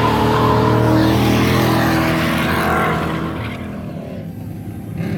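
Drift car's engine held at high revs as the car slides past close by. It is loud for about three seconds, then fades away.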